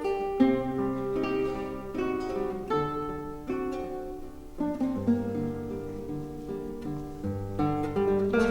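Classical guitar ensemble playing: plucked nylon-string melody and chords over a sustained bass line, with new notes struck every fraction of a second.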